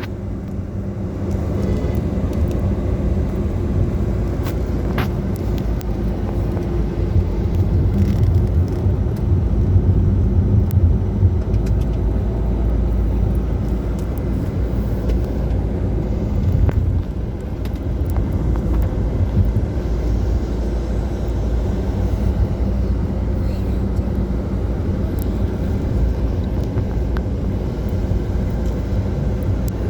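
Car driving on a highway: a steady low rumble of engine and road noise, with a constant hum.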